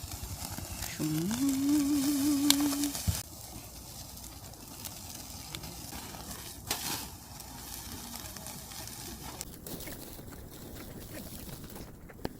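Pork belly sizzling on a grill over a strong wood fire, with scattered crackles. About a second in, a wavering pitched tone rises, holds for about two seconds, then cuts off sharply.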